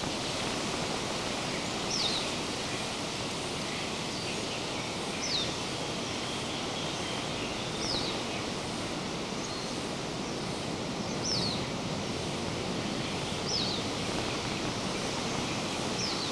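Steady outdoor rushing noise, with a bird repeating a short, high, falling chirp every two or three seconds.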